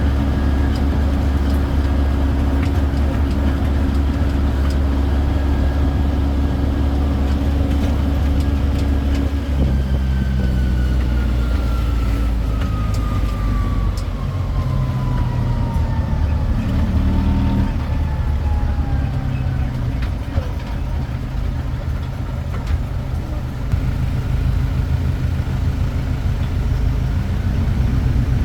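Engine of a tourist road train running steadily. Its low tone shifts about a third of the way in, and a thin whine then falls slowly in pitch for about ten seconds.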